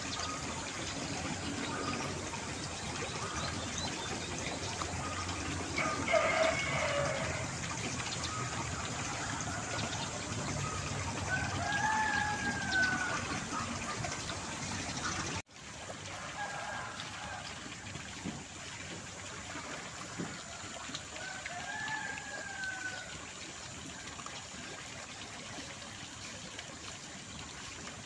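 A rooster crows twice, about twelve seconds in and again about ten seconds later, each crow rising and falling in pitch over about a second. A steady trickle of running water carries on underneath.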